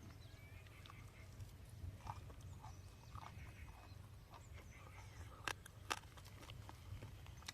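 Faint eating noises: soft chewing and small clicks, with two sharp clicks about five and a half and six seconds in, over a low steady rumble.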